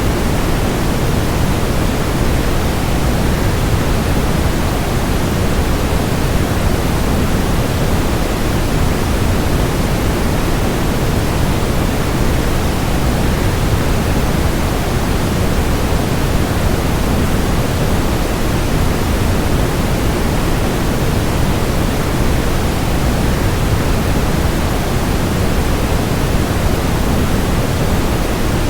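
Waterfall rushing, blended with a constant white-noise bed: a steady, even, deep hiss that never changes.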